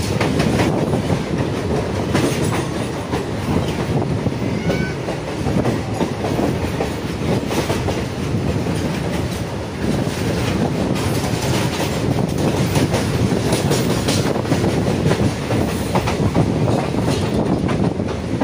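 Passenger train running along the track: a steady rumble with wheels clattering over the rail joints.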